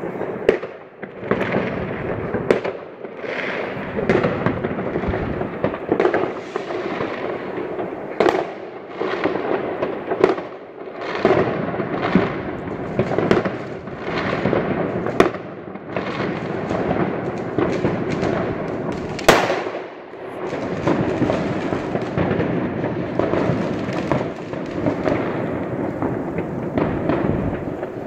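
Many New Year fireworks and firecrackers going off at once, a dense, near-continuous crackle of bangs and pops, with one sharp, loud crack about two-thirds of the way through.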